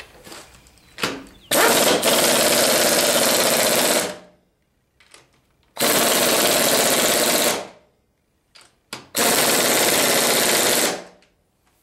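Impact wrench hammering a bolt down in three bursts of about two seconds each, with a few light metal knocks in the gaps.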